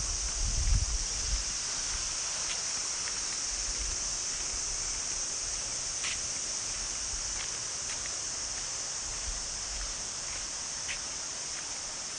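Steady, high-pitched insect chorus, with a few faint ticks and some low rumbling on the microphone in the first second or so.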